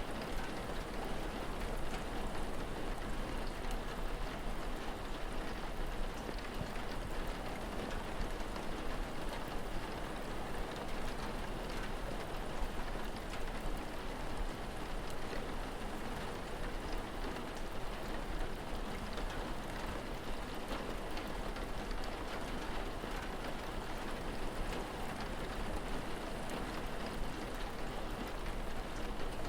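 Steady rain falling: an even hiss with faint scattered drip ticks over a constant low rumble.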